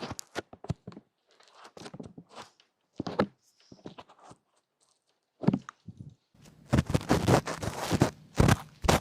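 Ear-cleaning ASMR sounds on the microphone: scattered small clicks and scrapes, then from about six seconds in a dense, louder run of crackling scratches.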